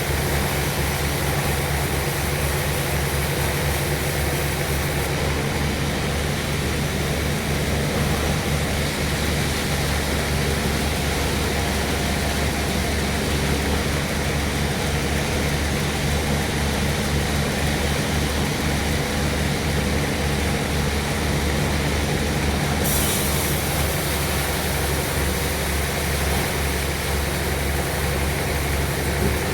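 Sawmill machinery running with a steady, low engine drone.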